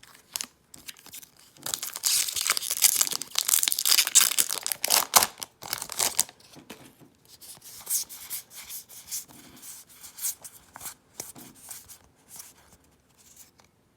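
Foil wrapper of a Magic: The Gathering booster pack being torn open with loud crinkling for a few seconds, followed by lighter rustling and clicks as the cards are pulled out and handled.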